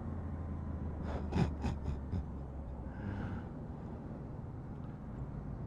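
Honda VFR800 V4 engine running low and steady at an easy road pace, heard on the helmet microphone. About a second in, the rider takes four quick, sharp breaths.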